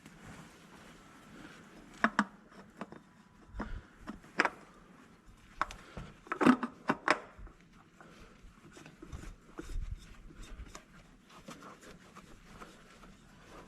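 Scattered sharp clicks and knocks of hand tools and parts being handled, with a few dull low thuds; the loudest knocks come about six and a half to seven seconds in.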